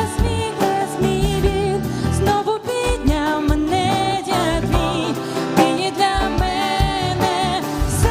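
Worship band performing a contemporary Christian song: a singer holding wavering, vibrato notes over a band with regular drum hits.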